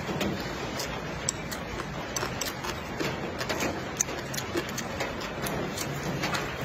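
A man chewing a mouthful of rice and stir-fried chicken offal, with wet mouth sounds and small irregular clicks.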